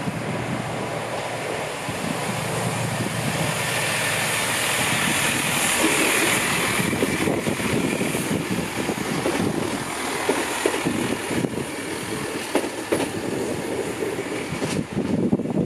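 A Chiltern Railways train passing close by. Its noise swells to a peak about six seconds in, then the wheels click repeatedly over the rail joints for several seconds as it goes by, with wind on the microphone.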